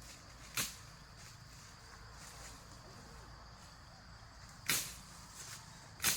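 Three short, sharp swishing strokes, the first about half a second in and the last two near the end, over a faint, steady, high insect-like drone.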